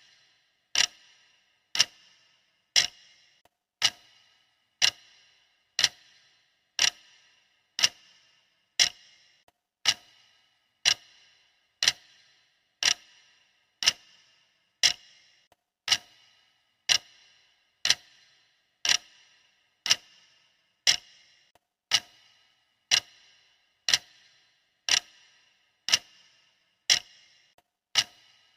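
Countdown timer's clock ticking sound, one sharp, even tick about every second.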